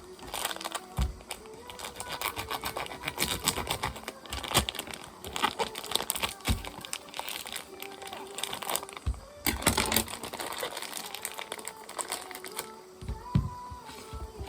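Quick runs of knife strokes tapping on a wooden cutting board as food is chopped, over soft background music.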